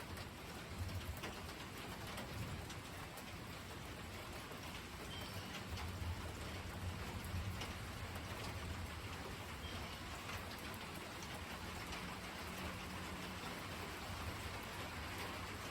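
Steady rain falling, with many individual drops ticking. A low rumble comes and goes underneath.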